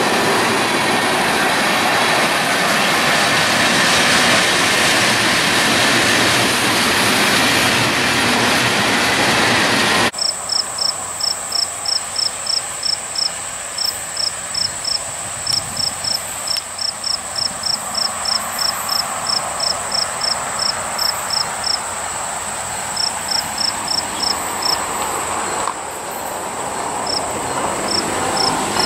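A train rolling past with a steady rush of wheel and rail noise. About ten seconds in it cuts off abruptly to a quieter scene. There an insect chirps in short high pulses, about three a second with a few pauses, over a steady high hiss.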